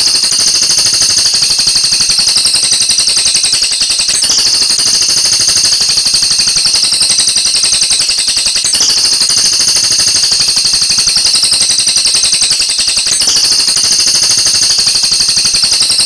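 Oriental magpie-robin (kacer) singing a loud, rapid, unbroken rattling trill of high notes, in phrases that restart about every four and a half seconds.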